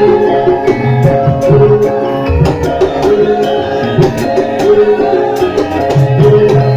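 Javanese gamelan playing a lengger dance accompaniment, with metallophone melodies over a steady pattern of hand-drum strokes.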